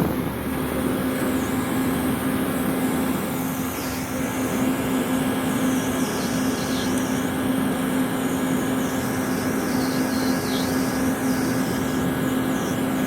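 Steady engine and road noise heard inside a car's cabin, with a constant low hum and no sudden sounds.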